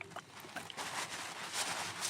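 Wood campfire burning: a rushing hiss of flames that swells and eases, with scattered small crackles and pops.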